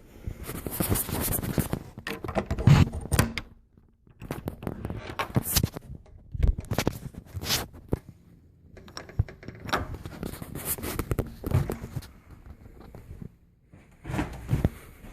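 A person moving about while holding the camera: irregular rustling and scraping handling noise mixed with thumps and footsteps, in short bursts separated by brief pauses.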